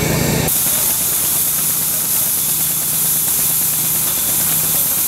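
An engine running steadily under a loud hiss. A louder, deeper engine sound cuts off abruptly about half a second in, leaving the hiss and a faint steady hum.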